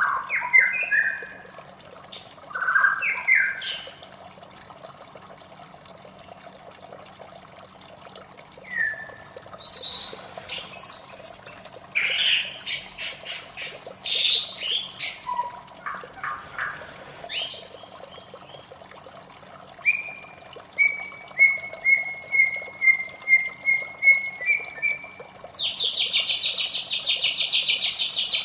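White-rumped shama singing a varied song of whistles and chirps, including a run of evenly repeated notes and, near the end, a fast dense rattling trill. A faint steady water sound runs underneath.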